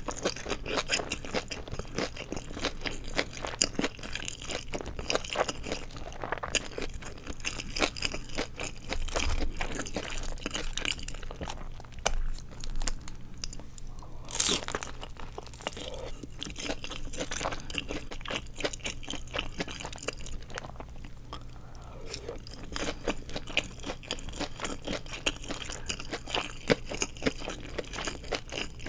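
Crunching and chewing of deep-fried seaweed (nori) rolls filled with glass noodles, a dense crackle of crisp bites, with one louder crunch about halfway through.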